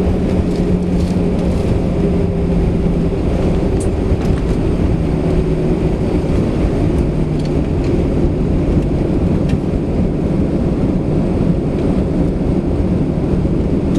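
Steady low rumble of an Airbus A320's cabin and idling engines while taxiing, with a faint hum that shifts slightly in pitch.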